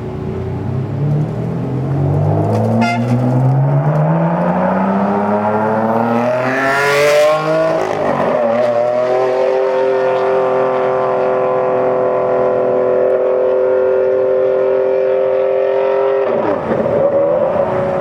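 Ferrari Enzo's naturally aspirated 6.0-litre F140 V12 accelerating hard, its revs climbing steadily for about seven seconds, then a steady held note for several seconds that wavers near the end.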